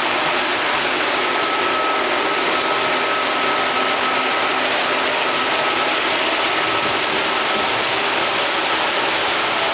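Miniature model trains running on their track: a steady mechanical clatter and whir, with a faint steady whine.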